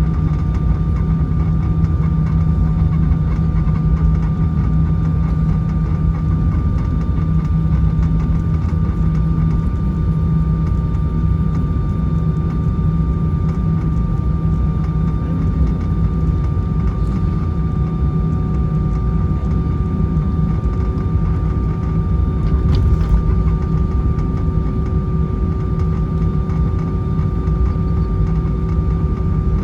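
Airbus A320-214 cabin heard from a window seat on the ground after landing. Its CFM56 engines hum steadily at idle over a low, even rumble, with a brief faint tick about 23 seconds in.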